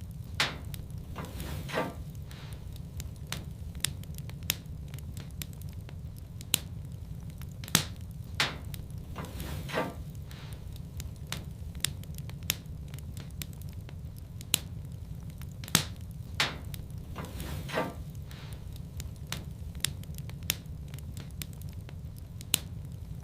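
Wood fire crackling in a fireplace: irregular sharp pops and snaps, a few of them in quick crackling runs, over a steady low rumble of the burning fire.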